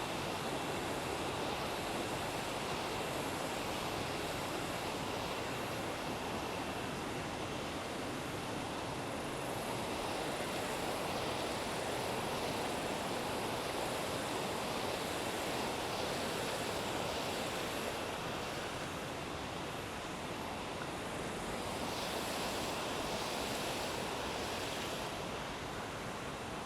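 A river rushing steadily: a continuous, even sound of flowing water, with a faint steady high tone over it.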